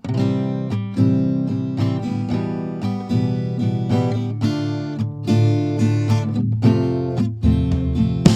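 Intro music played on acoustic guitar, plucked and strummed notes at a steady pace, starting abruptly out of silence.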